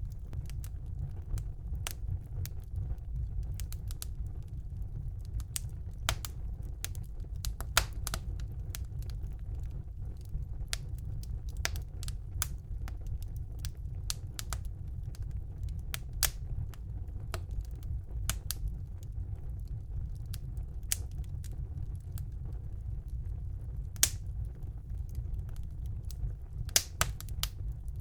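Wood fire burning in a fireplace: irregular sharp crackles and pops over a steady low rumble of the flames, with a few louder pops about 8 seconds in and near the end.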